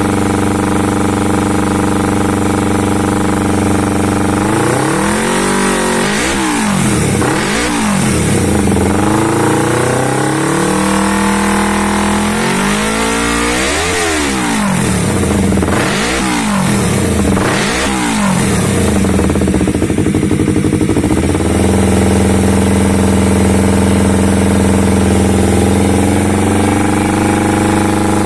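Yamaha MT-25's 250cc parallel-twin engine breathing through a Leovince Cobra aftermarket racing exhaust: idling, then blipped up and down repeatedly in two sets, held briefly at higher revs, and settling back to a steady idle.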